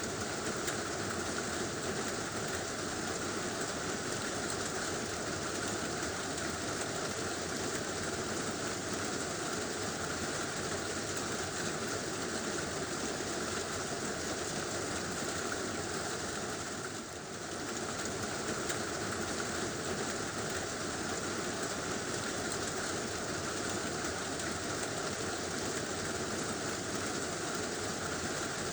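Heavy rain drumming steadily on a tin roof, dipping briefly about seventeen seconds in.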